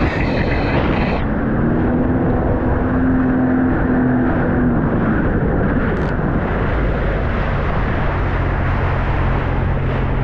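Sea-Doo RXP-X 300 jet ski's supercharged three-cylinder engine running under way, its pitch shifting as the throttle changes, over a loud steady rush of noise. A high whine cuts off about a second in.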